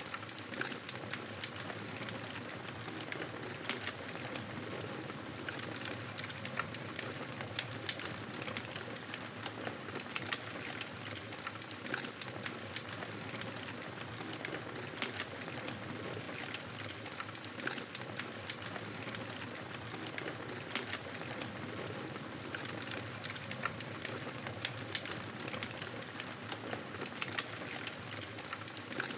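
Wood fire crackling in a fireplace: a steady hiss of burning with frequent, irregular sharp pops and snaps.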